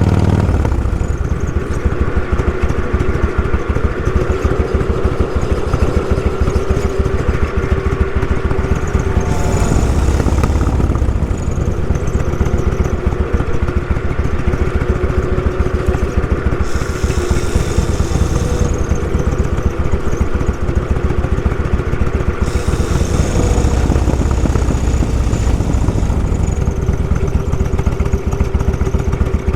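Motorcycle engine running at a steady low speed, its firing pulses close and even. Patches of hiss come and go three times.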